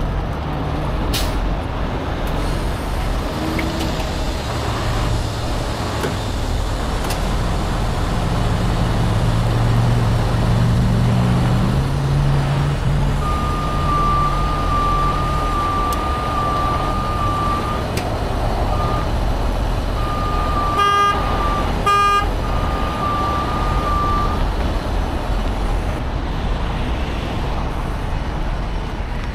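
A heavy truck's diesel engine running and revving up, followed by a reversing alarm beeping about twice a second for around ten seconds, with two short horn toots near the end of the beeping.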